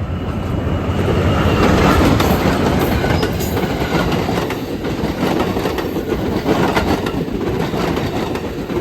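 Siemens SC-44 Charger diesel-electric locomotive passing close by at speed, loudest about two seconds in. Passenger cars follow, their wheels clacking over the rail joints.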